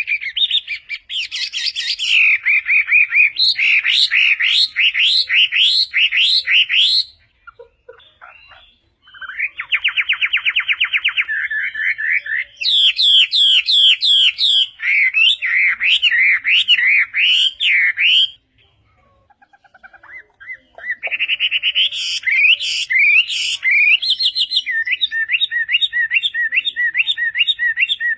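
Chinese hwamei (melodious laughing thrush) singing a loud, varied song. It runs through phrases of slurred whistled notes, gives a fast rattling trill about ten seconds in, and repeats one short phrase over and over near the end, with two brief pauses between bouts.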